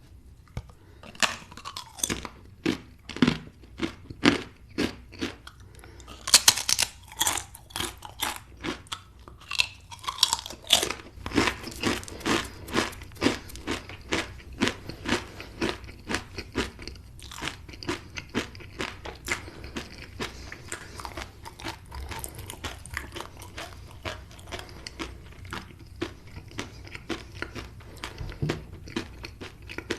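A person biting and chewing crunchy food close to the microphone, mukbang style: sharp crunches that start about a second in and are loudest a few seconds later, then settle into steadier, softer chewing.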